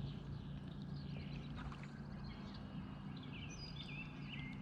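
Songbirds chirping, a run of short high chirps with quick pitch slides starting about halfway in, over a steady low hum.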